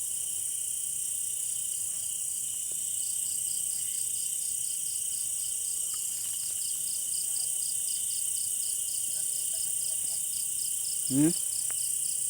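Night insect chorus of crickets and other insects: a steady high-pitched trilling, joined a few seconds in by a pulsing call of about four or five pulses a second. Near the end one short, louder low sound stands out briefly.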